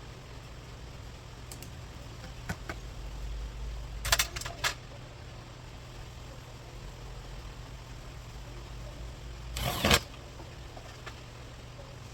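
Metal clinks and knocks from hand tools and car parts being handled, a cluster of sharp clicks about four seconds in and a short, louder rustling burst near ten seconds, over a steady low hum.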